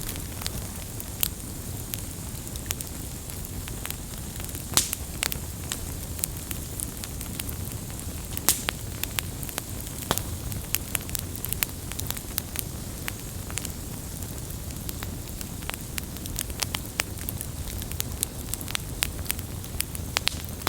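Wood fire crackling and popping: irregular sharp snaps over a low, steady rumble of flames, with a few louder pops now and then.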